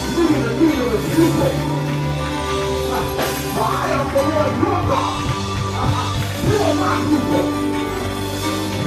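Church praise music from a live band, with sustained bass and keyboard chords under a busy, bending melodic line from instruments or voices.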